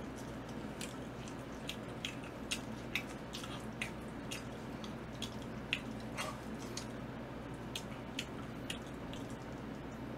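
A person eating: irregular wet mouth clicks and smacks of chewing, scattered a few times a second, over a steady low hum.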